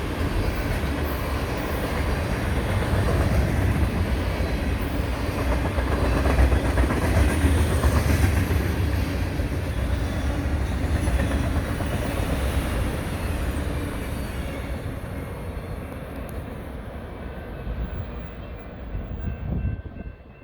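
Freight cars of a long manifest train rolling past, wheels clattering over the rail joints with a heavy low rumble. Loudest around the middle, then fading over the last several seconds.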